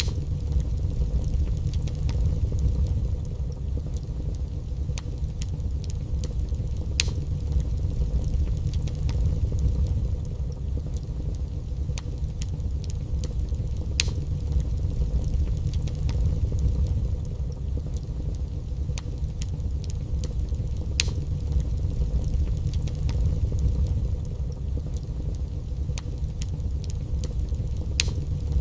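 Wood fire burning in a fireplace: a steady low rumble of the flames with scattered sharp crackles and pops from the burning logs, a few of them loud.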